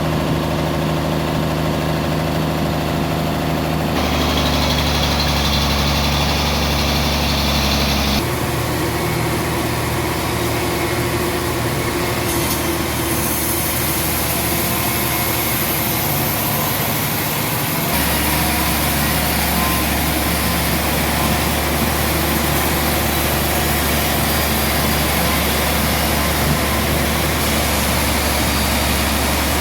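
Sawmill machinery running with a steady low engine-like hum, its sound changing abruptly several times.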